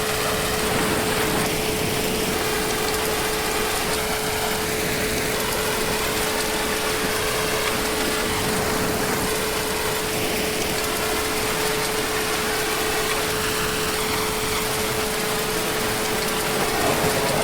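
Heavy rain falling steadily, an even wash of noise with no breaks, and a steady hum sounding underneath.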